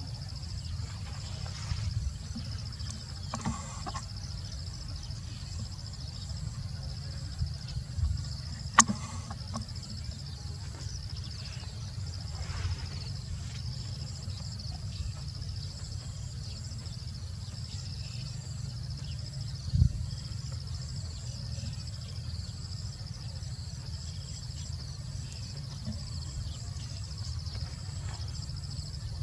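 Outdoor rural ambience: a steady high insect drone over a low rumble, with a sharp click about nine seconds in and a thump about twenty seconds in.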